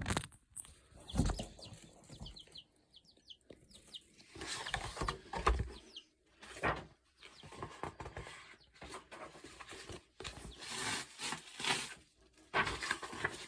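Faint, intermittent bird calls, including a quick run of short high chirps a few seconds in.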